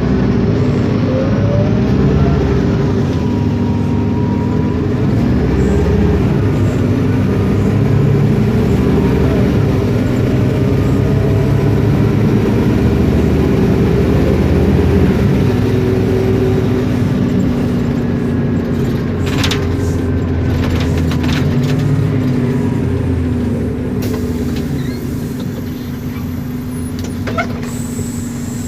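An Isobus City 1200 city bus under way: its MAN D0836 LOH diesel engine running with the ZF Ecomat 6HP504C automatic gearbox and differential whining, the note rising and falling several times as the bus speeds up, shifts and slows. A few sharp rattles come about two-thirds of the way through.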